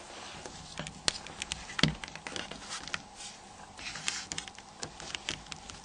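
Irregular small clicks and taps of plastic mobile-phone housing parts being handled and pressed together, with a heavier knock a little under two seconds in.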